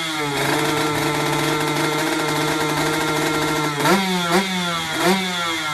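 Yamaha RX-King road-race bike's two-stroke single-cylinder engine with a racing exhaust and standard magneto, running steadily, then revved in three quick blips that rise and fall, about four seconds in.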